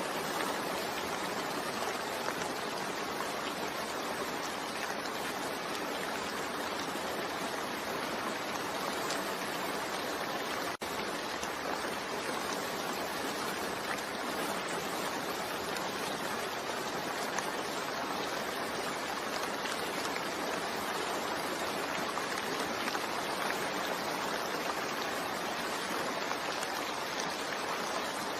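Steady rain falling, an even hiss, broken by a split-second gap about eleven seconds in.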